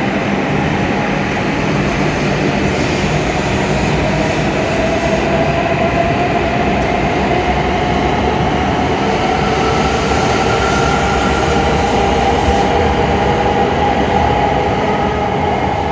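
E7 series Shinkansen train pulling out and accelerating, its running noise steady and loud while the traction motor whine slowly rises in pitch, with a higher whine joining partway through.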